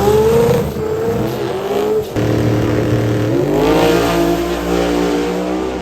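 Drag car engine at full throttle, its pitch climbing, breaking off about two seconds in and climbing again, as a manual-gearbox car accelerates and shifts gears.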